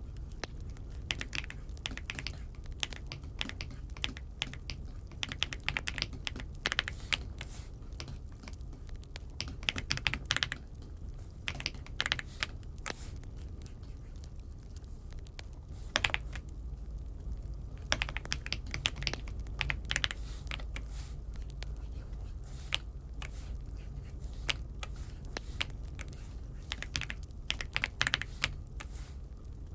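Aula F75 mechanical keyboard being typed on: irregular runs of clacky keystrokes broken by short pauses, over a steady low hum.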